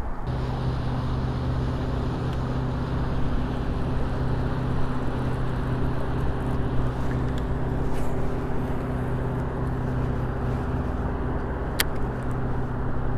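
A motor starts up and runs with a steady, even hum. A single sharp click sounds near the end.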